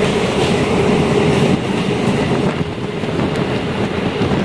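Passenger train running at speed, heard from inside the coach: steady wheel-and-rail running noise with a held low hum.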